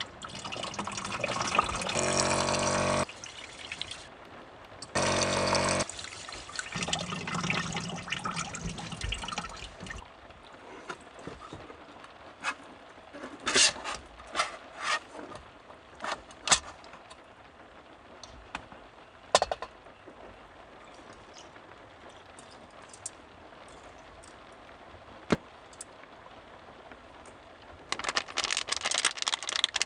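Water running and pouring into a container in two spells in the first six seconds, then trickling more softly until about ten seconds in. A scatter of light clicks and knocks follows.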